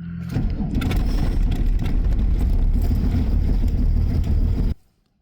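Starter motor cranking the cold Volvo D24 six-cylinder diesel for about four and a half seconds without it catching, then stopping suddenly; the engine is reluctant in the deep cold on unprepared fuel, with glow plugs cycled between attempts.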